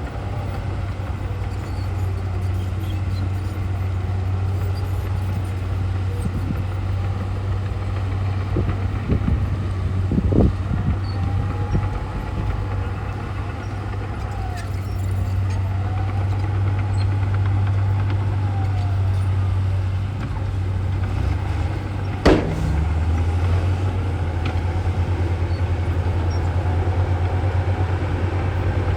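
Heavy diesel earthmoving machinery, most likely the Komatsu bulldozer, running steadily with a low engine drone and slow rising and falling whines. There are a few knocks near the middle and one sharp metallic clank about three-quarters of the way through.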